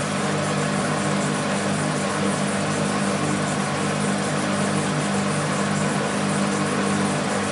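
BEKO WMB 51441 front-loading washing machine spinning its drum at speed: a steady motor and drum hum with an even rushing noise over it.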